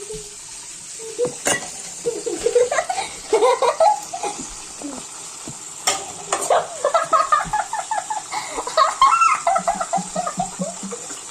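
Dishes and cutlery clinking in a kitchen sink during washing, with a few sharp clinks over a steady hiss of water, alongside a small child's high voice vocalising in short rising and falling phrases.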